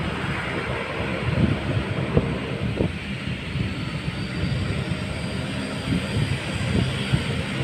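Airplane engine running with a steady drone and a faint high whine that rises slowly, with uneven low rumbles underneath.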